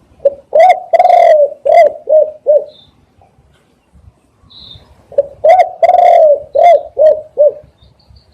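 Spotted dove cooing: two phrases about five seconds apart, each a run of short coos around one long drawn-out coo. Faint high chirps of another small bird come between the phrases.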